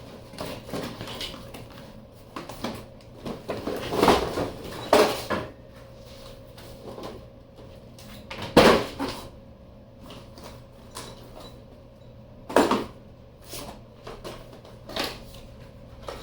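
Door lockset hardware being handled and set down: a series of separate knocks and clunks, the loudest about halfway through.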